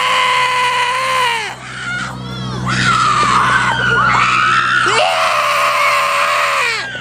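A person's long, high black-metal-style shrieking screams, three in a row, each held for a second or two with a wavering pitch.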